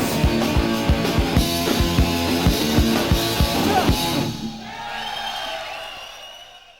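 Live punk rock band playing the final bars of a song, drum kit hitting a steady beat under electric guitars and bass. About four seconds in the band stops and the last chord rings on, fading out.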